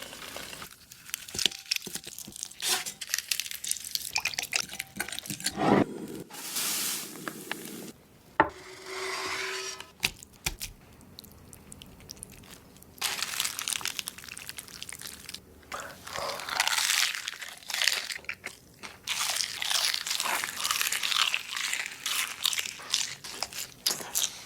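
Close-up eating of crunchy food: bites and chewing in irregular bursts of crisp crackling.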